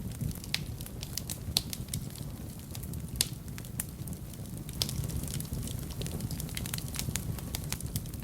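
Wood fire burning in a fireplace: a steady low rumble of flame with frequent sharp crackles and a few louder pops.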